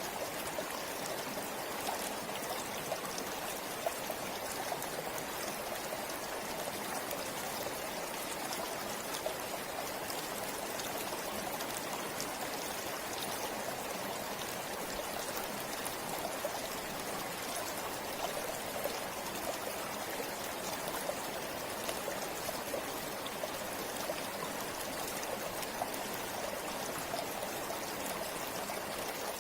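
A river or forest stream flowing: a steady rush of water with small splashes and trickles.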